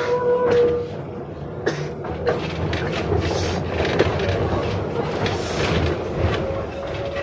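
71-605A tram running along the track, heard from inside the car: a steady rumble with wheels clicking over rail joints. A short tone sounds right at the start, and a slowly rising tone comes in during the second half.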